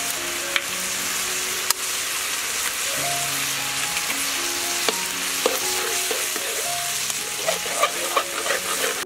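Vegetables and eggs sizzling steadily in a hot wok. A metal spatula clinks and scrapes against the pan a few times, most busily near the end as the eggs are stirred in.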